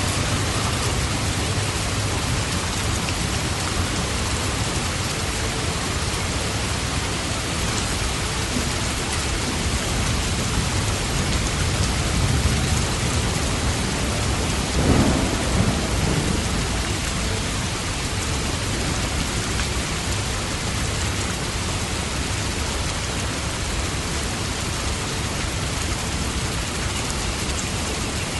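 Steady rain falling, with a short low rumble about halfway through.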